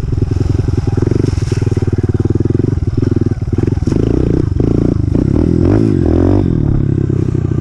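Honda CRF125F dirt bike's single-cylinder four-stroke engine running, its pitch wavering up and down about six seconds in as the revs change.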